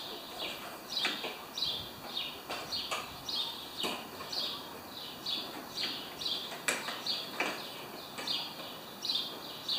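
A small bird chirps over and over, short falling chirps about two a second, with a few light clicks mixed in.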